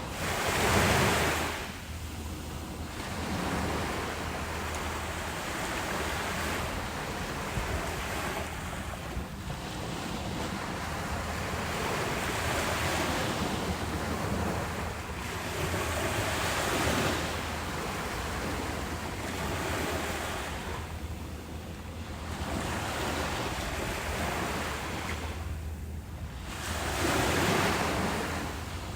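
Ocean waves breaking on a beach, a steady wash of surf that swells and recedes every few seconds. The loudest surge comes about a second in and another near the end, with some wind on the microphone.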